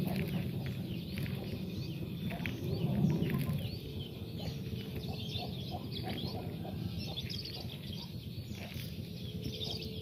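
Small birds chirping: many short, high chirps one after another over a low background rumble.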